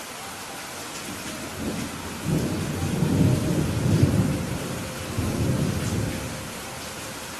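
Steady rain with a roll of thunder that builds about two seconds in, rumbles for several seconds, and fades away near the end.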